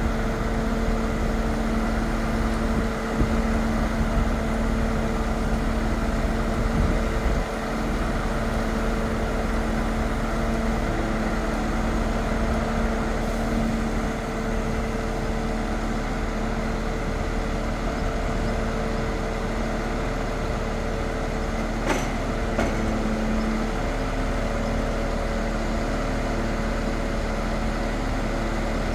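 Scania R500 truck's V8 diesel engine running steadily at a constant, even hum, with one sharp click about three-quarters of the way through.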